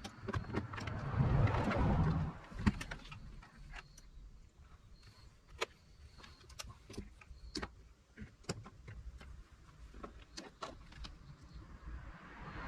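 Irregular light clicks and taps of hands handling cables and plugs, with a louder rustle about one to two seconds in.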